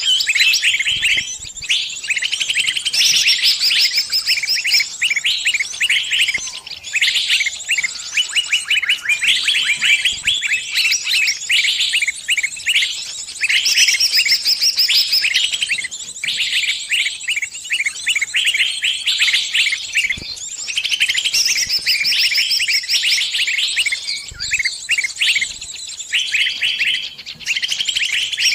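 Small bird's distress calls: rapid, almost unbroken high-pitched chirping and twittering with only brief pauses, the cry of a trapped bird calling its flock for help.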